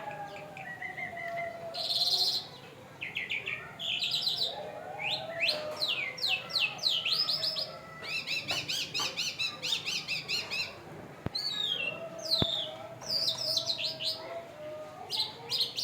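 A captive lark, the Irani jal, singing a long, varied song of quick chirps and fast trilled runs of repeated high notes, with a fainter lower wavering whistle underneath at times.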